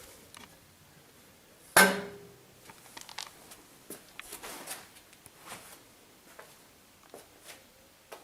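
Handling noise on the metal pellet-stove unit: one loud knock with a short ring about two seconds in, followed by scattered small clicks and rustles.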